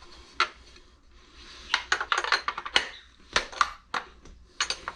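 Sharp metallic clicks and clinks of a wrench and steel router parts being handled, irregular and about a dozen in all, as the router's bit is changed.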